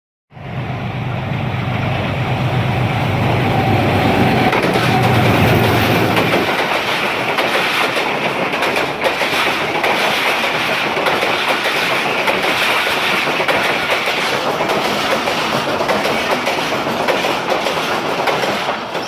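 A diesel-electric locomotive passes close by: its engine hums low and steady for about the first six seconds. Then the train's coaches rush past in a continuous clatter of wheels over the rail joints.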